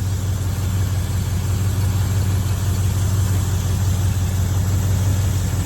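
Chevrolet Chevelle engine idling steadily at a raised idle, which the owners put down to the fast idle linkage staying up while the engine is cold.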